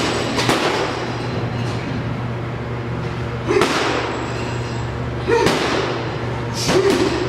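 Four short, sudden swishing thuds at uneven intervals over a steady low hum.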